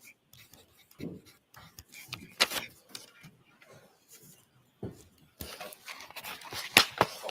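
Scattered knocks, clicks and rustling of handling and movement in a small room, with faint murmuring voices. The noise grows denser and louder about five seconds in, with the sharpest clicks about two and a half and about seven seconds in.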